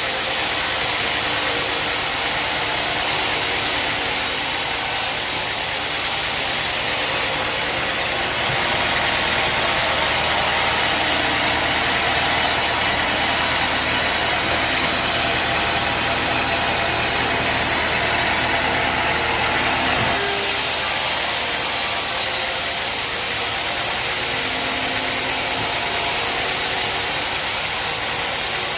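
Sawmill machinery running steadily: a dense engine-driven hum and hiss, its high-pitched part changing from about seven seconds in until about twenty seconds in.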